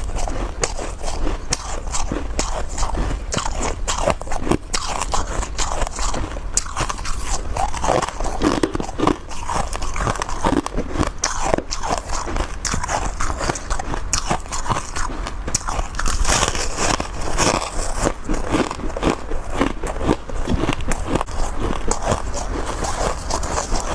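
A person biting and chewing crunchy chunks of freezer frost close to the microphone: dense, continuous crackling crunches.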